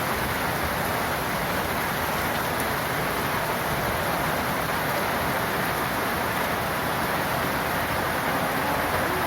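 Heavy summer downpour: rain falling steadily and densely, an even rushing noise.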